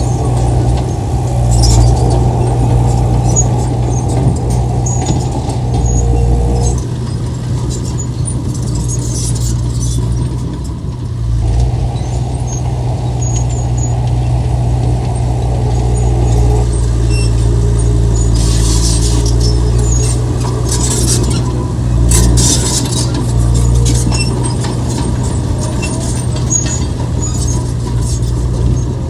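Heavy diesel earthmoving machinery running hard, its engine note shifting several times as the load changes. Bursts of high, metallic squealing and clatter come about two-thirds of the way through.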